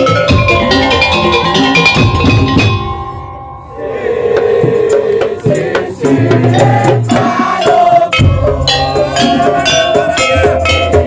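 Madurese daul (tong-tong) music: a loud percussion ensemble with wooden slit-drum strokes and drums playing a fast, dense rhythm under a melodic line. The music dips briefly about three seconds in, then comes back in full.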